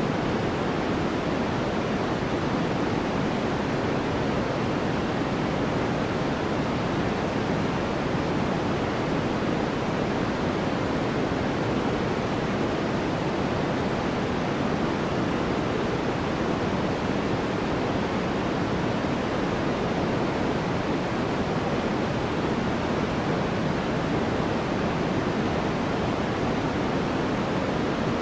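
Sleep-aid white noise: a steady, unchanging hiss with more weight in the low and middle range than in the treble.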